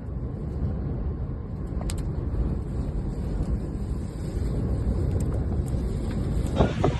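Strong wind buffeting the microphone: a heavy, low rumble that swells and eases with the gusts.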